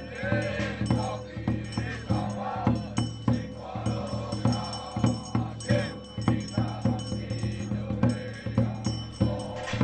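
Taiwanese temple ritual music: steady, evenly repeated percussion beats with rattling and chanted voices over them.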